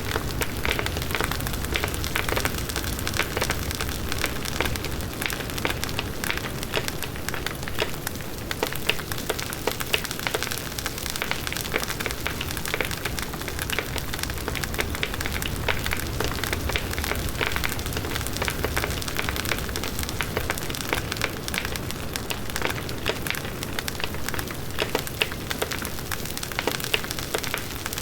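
Large outdoor bonfire burning: dense crackling and popping of burning wood over a steady low rush of the flames, with frequent sharp snaps.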